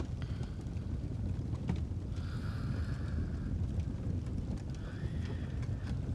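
Fireplace fire with a steady low rumble and scattered small crackles, and two soft, slow breaths of a sleeper, one a couple of seconds in and one near the end.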